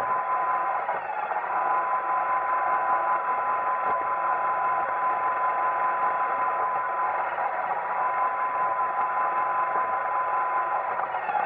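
iRobot Roomba 880 robot vacuum running: a steady whir of its vacuum motor and brushes with a constant whine, dipping briefly about a second in and again near the end.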